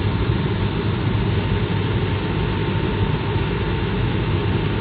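Steady cabin noise of an Airbus A220-300 in flight: an even rush of engine and airflow noise, deepest at the low end, with a faint steady whine running through it.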